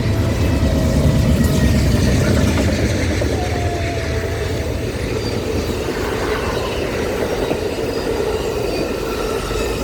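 A train passing at close range: a heavy low rumble, loudest in the first few seconds, then the steady rolling noise of the train on the rails.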